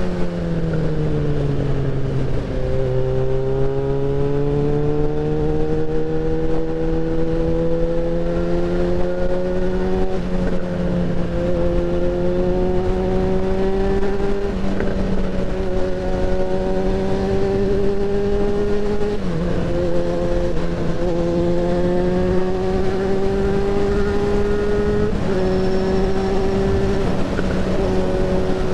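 Yamaha XJ6N's 600 cc inline-four engine under way, the note easing off over the first two seconds, then climbing gently with brief dips about four times as the throttle is worked, over steady wind rush.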